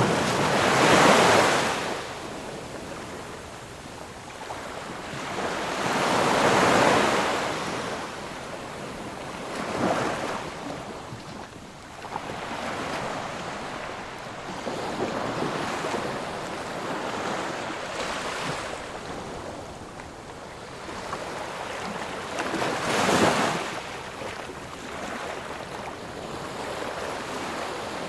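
Sea surf: waves breaking and washing up the shore, each swell rising to a loud hiss and falling back, with a softer steady wash between the breakers.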